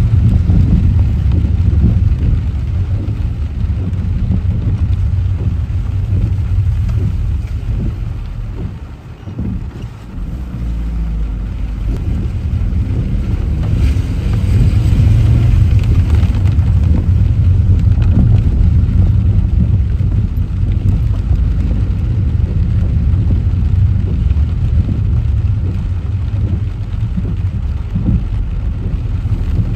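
Car driving on rain-soaked roads: a steady low road-and-engine rumble, dipping briefly about a third of the way in, with a short rise of hissing water spray from the tyres about halfway through.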